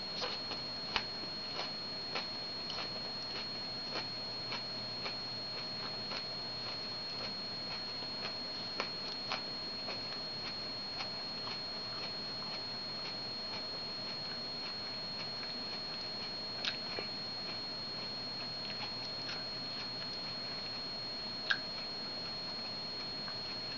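Someone chewing a ghost pepper with the mouth closed: irregular small wet mouth clicks, denser in the first ten seconds and sparser after, with a sharper click near the end. Beneath it runs a steady faint hiss with a thin high whine.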